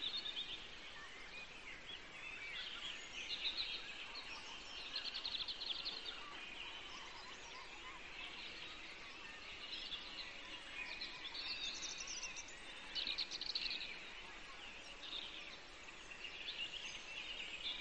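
Birds chirping and trilling on and off, in short rapid bursts, over a steady background hiss.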